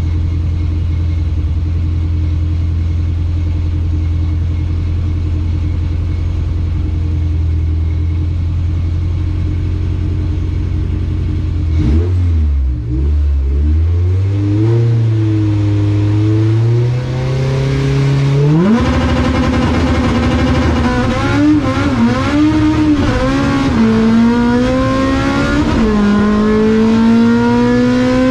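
A front-wheel-drive Honda VTEC race car's engine idling steadily, then revved in blips about twelve seconds in. From about two-thirds of the way through it pulls hard under acceleration, its pitch climbing and dropping back at gear changes, as in a drag-strip launch and run.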